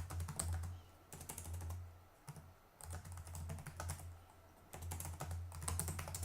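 Typing on a computer keyboard in five or six quick bursts of keystrokes with short pauses between them.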